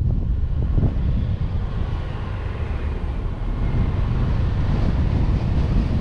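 Wind rumbling on the microphone of a car-mounted camera, over the steady noise of the car driving.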